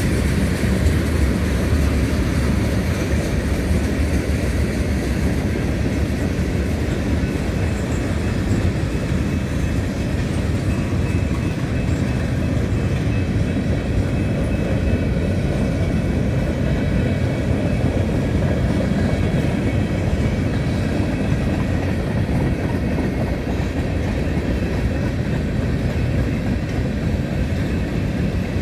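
Freight cars (tank cars, gondolas and covered hoppers) rolling past on the rails, their wheels making a steady, continuous rumble.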